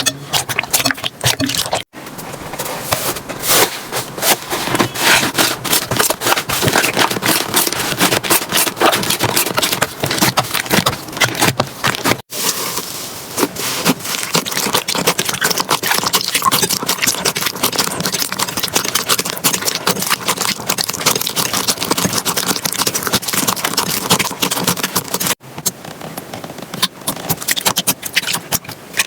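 Slime being squeezed, poked and stretched by hand, a dense run of sticky clicks, pops and crackles. It breaks off sharply three times as one clip cuts to the next.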